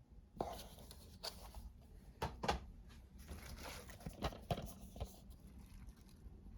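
Blu-ray and DVD cases and their packaging being handled: rustling with several sharp clicks and knocks of plastic, beginning about half a second in and dying down near the end.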